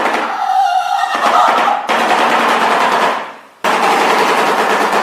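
Shoebill clattering its bill: a rapid, machine-gun-like rattle in long bouts. The first bout breaks off a little after three seconds in, and a second starts shortly after.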